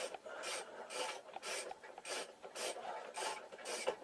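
Steady back-and-forth rasping strokes of a hand tool working on something, about two to three strokes a second.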